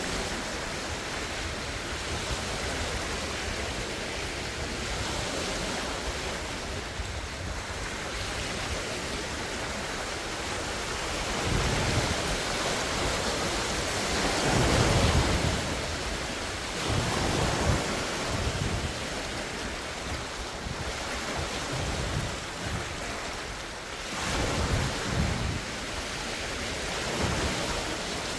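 Large wind-driven lake waves breaking and washing ashore, in swells every few seconds, with strong wind buffeting the microphone.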